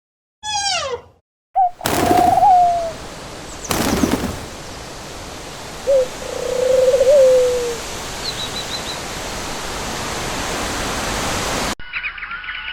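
A short falling animal cry, then a steady hiss with a few brief, animal-like calls over it. The hiss cuts off suddenly near the end.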